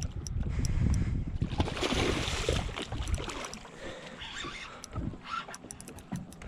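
Wind buffeting the microphone aboard a small fishing boat, with water noise and a brief rushing hiss about two seconds in.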